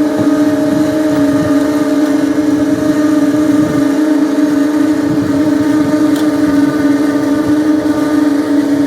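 Heavy construction machine's engine running at a steady speed: a constant droning hum with a rough rumble underneath.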